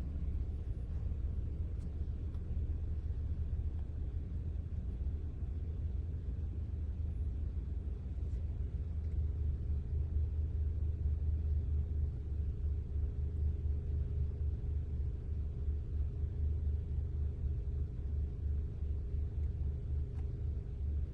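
A steady low rumble, with a faint hum held through it.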